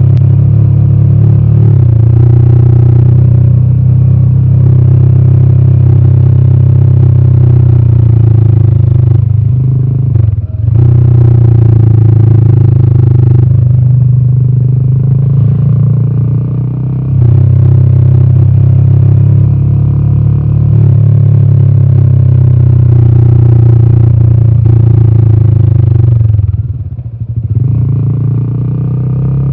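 Royal Enfield Himalayan 450's single-cylinder 452cc Sherpa engine running on the road, a steady deep exhaust note. The note dips briefly about ten seconds in and again for about two seconds near the end before picking back up.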